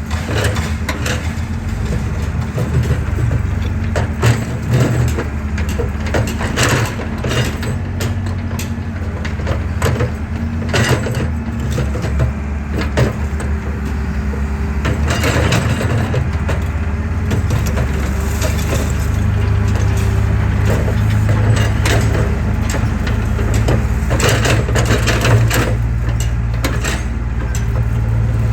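Excavator's diesel engine running steadily under load, with repeated cracks and crunches of concrete breaking apart as the machine crushes a concrete pillar.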